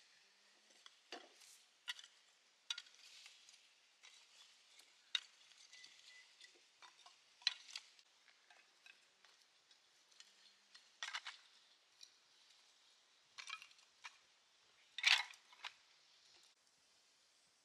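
Faint, scattered short clicks and scrapes, one every second or two, with the loudest a little before the end.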